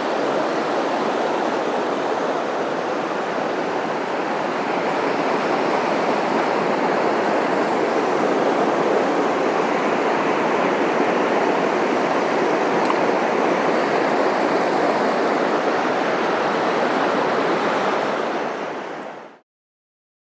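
Mountain stream water rushing steadily, fading out near the end into silence.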